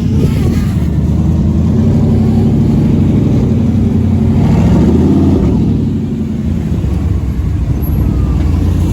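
A car engine running close by, revved up about four seconds in and dropping back about a second later.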